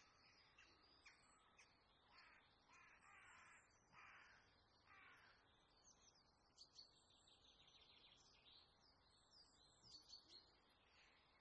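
Faint bird calls: a run of short repeated calls in the first half, then quick high chirps.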